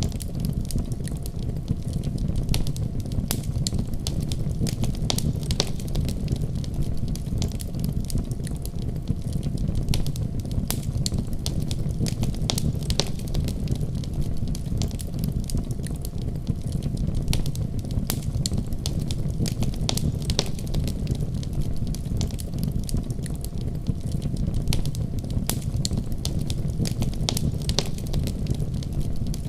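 Wood fire crackling in a fireplace, with frequent short, sharp pops at irregular intervals over a steady low rumble.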